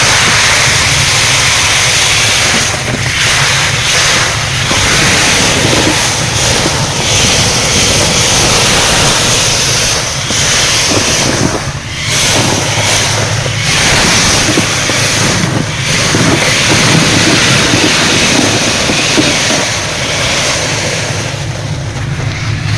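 An engine running steadily under a loud, continuous rushing hiss, with a few brief dips in the hiss.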